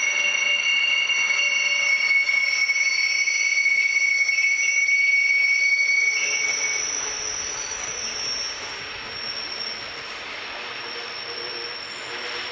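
Rhaetian Railway metre-gauge train's wheels squealing on the rails: several steady high-pitched squeal tones over the running noise. The sound is loudest in the first half; about six seconds in the lower squeal tone stops and the sound fades, with a higher squeal carrying on.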